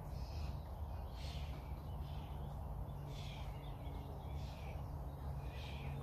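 A bird calling over and over, short calls about once a second, over a steady low hum.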